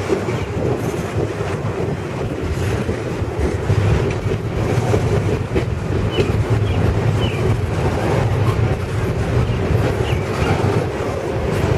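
Double-stack container well cars rolling past: a steady, loud rumble of steel wheels on rail with rhythmic clatter, and a few short wheel squeals from about six seconds in.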